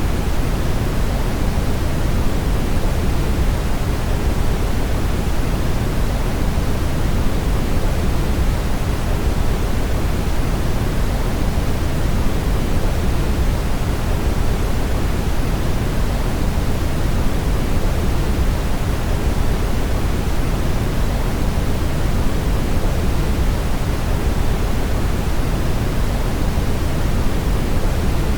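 Brown noise: a steady, even rushing hiss, heaviest in the low end and fading toward the highs, unchanging throughout.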